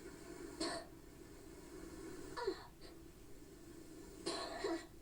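A child quietly sounding out a word in short breathy voiced syllables, three of them about two seconds apart, the last one doubled, over a low steady hum.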